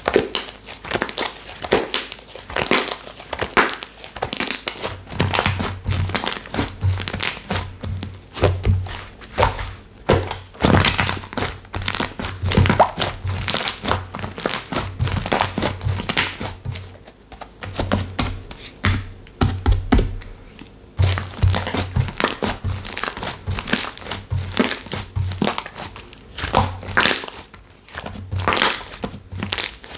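Slime being squished, pressed and poked by hand, giving dense crackling and popping clicks with a low, regular thump underneath.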